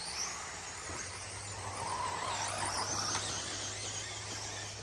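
Electric RC short course trucks racing, their brushless motors giving high-pitched whines that rise and fall as they speed up and slow, with a steady low hum under them from about a second in.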